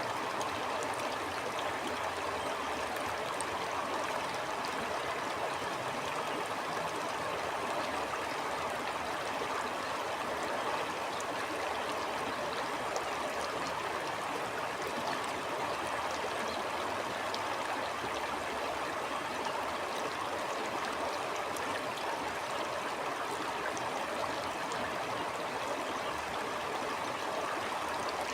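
A stream running steadily, an even rush of water with fine gurgling and trickling detail.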